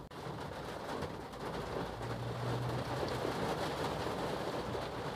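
Heavy rain pattering on a car's roof and windshield, heard from inside the cabin, with a low steady hum from about two seconds in.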